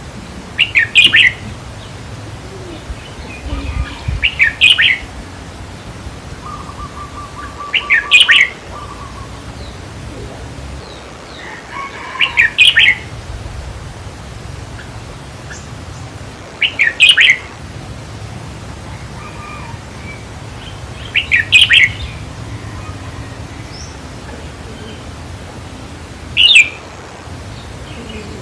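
Red-whiskered bulbul singing short, bright phrases about every four seconds, seven in all, with fainter chirps in between.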